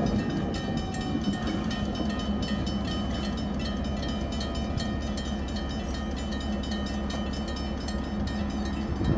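A train rolling steadily past: a low rumble of railcars with rapid clicking from the wheels and several held high tones.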